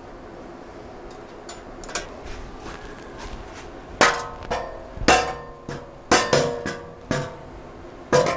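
Steel exhaust pipe sections being knocked together to slip them into one another: a couple of light knocks, then from about four seconds in a run of loud metallic clangs, each ringing briefly.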